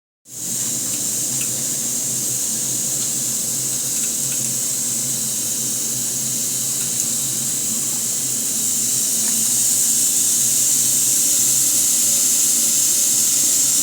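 Hot cast-iron sizzler plate sizzling steadily under pineapple cake and ice cream, a continuous high hiss that grows a little louder about ten seconds in. A low steady hum runs underneath.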